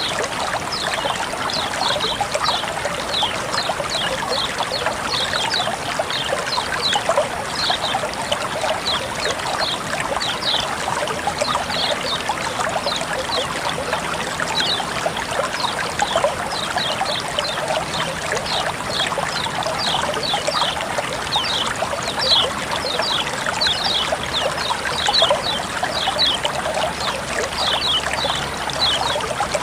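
Flowing water trickling and splashing steadily, with a constant rush and many short, high plinks a couple of times a second.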